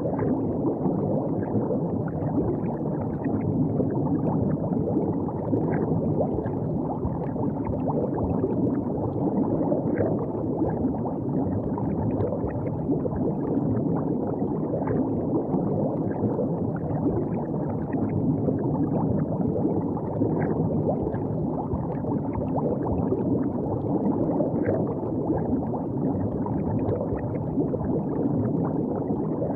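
River water running steadily, a dense low rush with small splashy ticks scattered through it.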